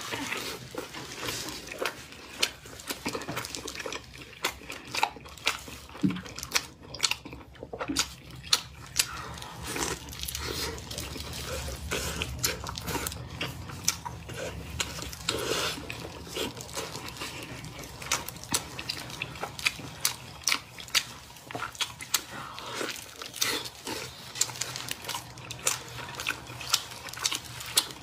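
Close-miked wet chewing and biting of saucy braised meat, with many sharp, irregular mouth clicks and smacks.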